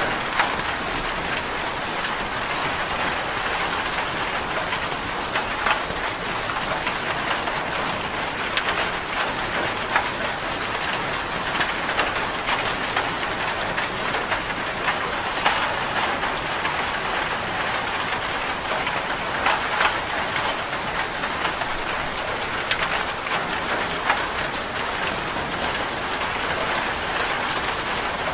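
Steady rain falling, an even hiss with scattered sharper drops and ticks throughout.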